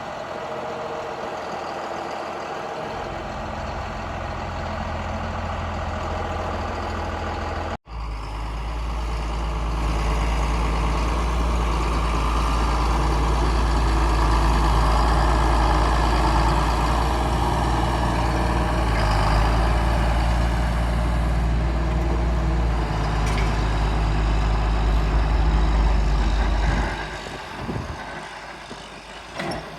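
John Deere 4955 tractor's diesel engine running steadily. The sound drops out for an instant about eight seconds in, comes back louder and deeper, and falls to a lower level about three seconds before the end.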